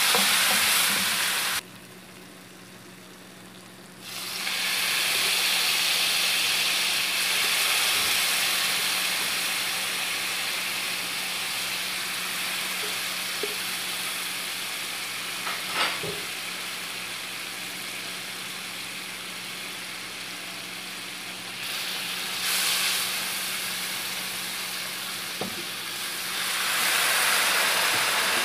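Chopped garlic, ginger and spices sizzling in hot oil in a frying pan, with a wooden spatula stirring and now and then knocking on the pan. The sizzle drops away for about two seconds early on and grows louder near the end.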